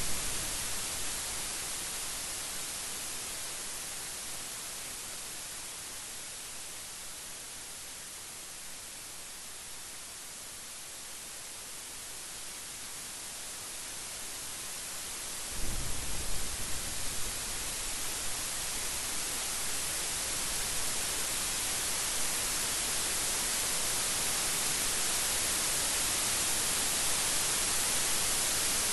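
Steady rain hissing, with a thunder rumble dying away at the start. About halfway through, a sudden clap of thunder rumbles for a second or two. The rain then grows gradually louder.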